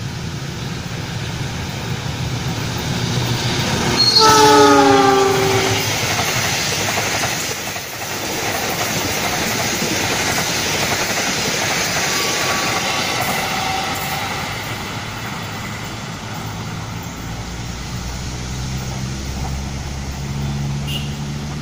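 Argo Jati express passenger train passing at speed. The locomotive's horn sounds about four seconds in, its chord sliding down in pitch as it goes by, then comes the rushing noise and wheel clatter of the carriages.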